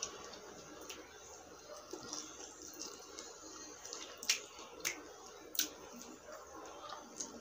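Close-miked eating sounds: a mouthful of saucy barbecue pork rib being chewed, with several sharp, wet lip smacks every second or so.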